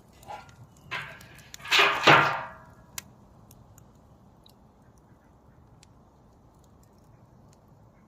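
Wood campfire with faint, scattered crackles and pops. In the first two and a half seconds a brief, loud pitched cry in several short bursts stands out, loudest about two seconds in, followed by one sharp pop.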